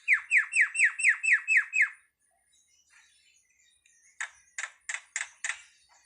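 A jalak (starling) calling: a quick run of about eight clear notes, each falling in pitch, then, after a pause, about five harsh rasping calls.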